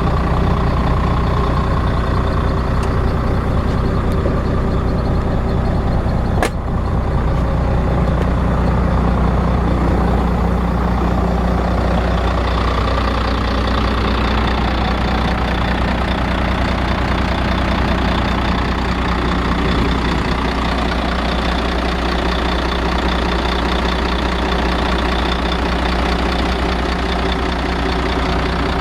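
Volvo FH12's D12C diesel engine running steadily at idle, its injectors freshly repaired. One sharp click about six seconds in.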